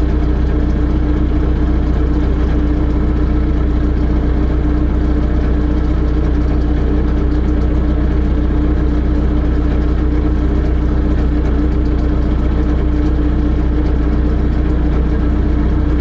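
A heavy engine idling steadily at a constant speed, with a deep, even hum that neither rises nor falls.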